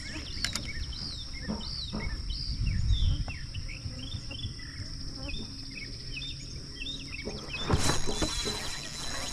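Songbirds chirping and singing in many short, quick overlapping calls, with low wind rumble on the microphone and a steady high-pitched whine.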